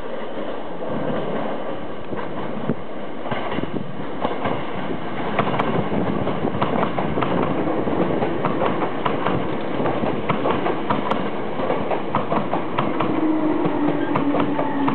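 A Hankyu 3300-series eight-car resistance-controlled electric train runs in alongside, its wheels clicking over the rail joints in a steady clickety-clack over the rumble of the passing cars. Near the end a motor whine falls in pitch as the train brakes for the stop.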